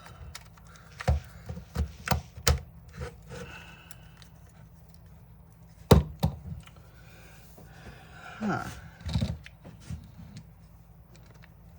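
Plastic and metal parts of a DeWalt DCD780 cordless drill being handled and pushed together: a string of sharp clicks and taps, the loudest about six seconds in. The gearbox and speed selector are not seating properly in the housing.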